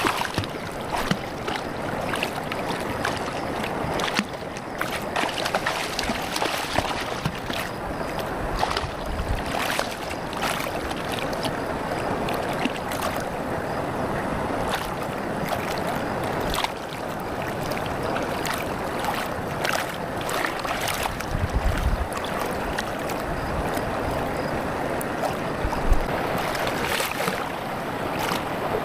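Campfire burning, with a steady hiss and many small sharp crackles and pops.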